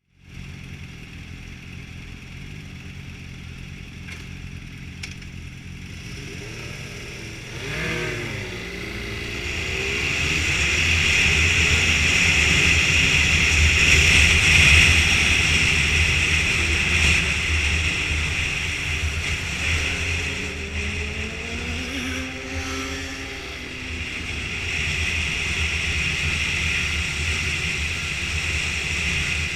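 BMW motorcycle engine running quietly, then the bike pulls away and speeds up: the engine note rises and falls through the gears, first about a quarter of the way in and again near three-quarters. A loud rushing noise builds with speed.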